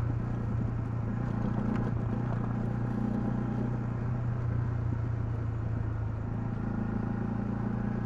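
Honda CL250's single-cylinder four-stroke engine running at a steady speed on the move, with a constant even pitch over road and wind noise.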